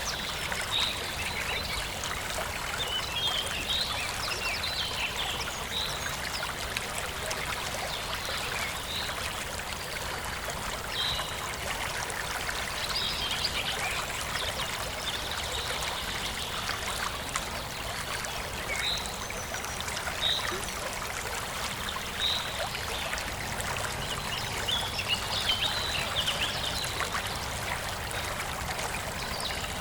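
Forest stream flowing and trickling steadily, with small birds chirping in short repeated calls every second or two.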